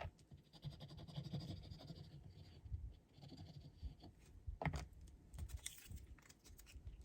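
Faint rustling and scraping of paper strips being handled and worked on a card, in two short stretches, with one sharper click about four and a half seconds in.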